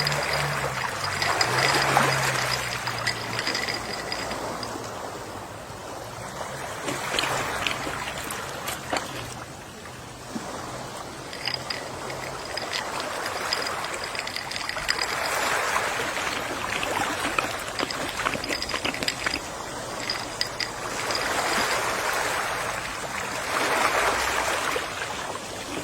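Gentle sea waves washing onto the shore, rising and falling in slow, soft surges every several seconds.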